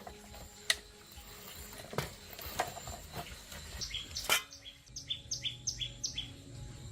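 A bird calling a quick series of about eight short, high, falling notes, about three a second, starting a little before the midpoint. Scattered sharp clicks and knocks come before and during the calls.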